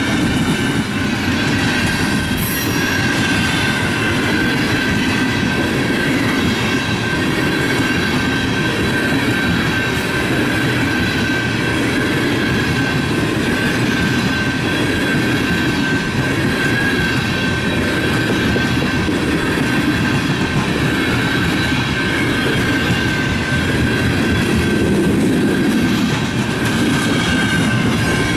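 Loaded coal gondolas of a unit freight train rolling steadily past: a constant rumble and clatter of steel wheels on rail, with a thin high squeal from the wheels.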